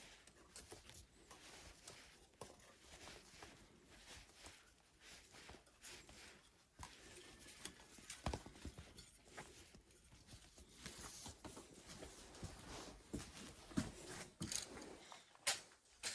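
Faint, scattered clicks, taps and short scrapes of tools and objects being handled, with no steady rhythm, growing a little busier and louder in the second half.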